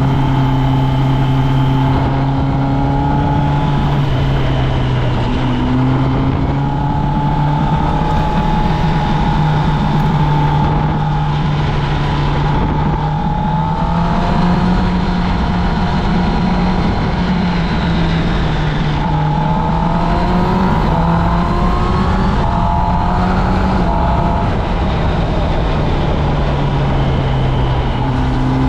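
Kawasaki Ninja ZX-10R's inline-four engine running through its stock exhaust while riding, at a mostly steady pitch. The pitch rises and falls briefly about halfway through and again a little later as the throttle changes.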